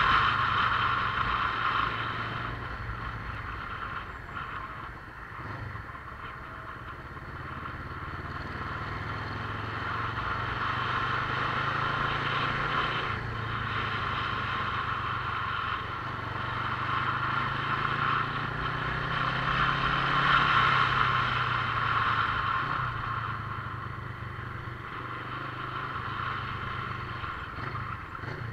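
Motorcycle engine running on the move, its note rising and falling as the bike speeds up and slows, under a steady rushing noise.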